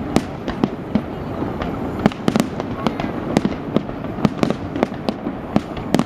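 Fireworks display going off: a rapid, irregular string of sharp bangs and cracks, several a second, over a steady rumble.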